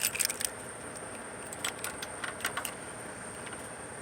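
A bunch of keys jangling in the hand: short clusters of light metallic jingles at the start and again in the middle, over a steady background noise.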